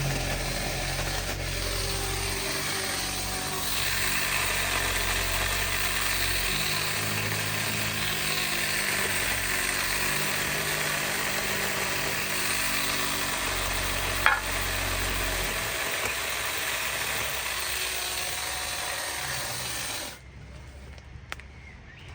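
Chainsaw running and cutting, its pitch shifting several times as the load changes, with one sharp crack about two thirds of the way through. It stops suddenly a couple of seconds before the end.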